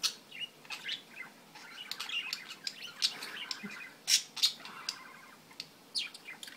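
Budgies chirping and squawking in a cage: scattered short sharp calls mixed with rapid warbling chatter.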